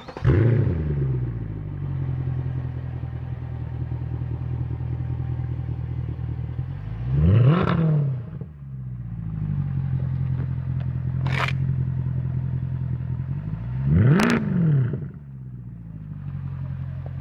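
Mercedes-AMG C63 V8 exhaust: the engine starts with a loud flare of revs, then settles into a steady idle. It is blipped twice, the pitch rising and falling each time, with a single sharp crack between the two blips, and it drops to a quieter idle near the end.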